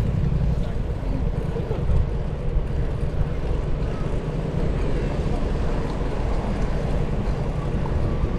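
Wind rushing over the microphone of a camera on a moving bicycle, a steady low rumble.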